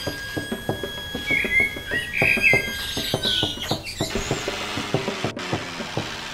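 Birds chirping in short, warbling calls, mostly in the first half, over a quick run of sharp clicks.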